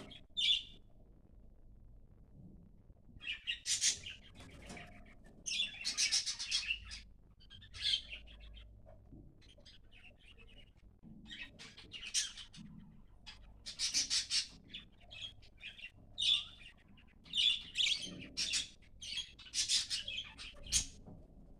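Budgerigars chirping and squawking in repeated short bursts, with brief pauses between them.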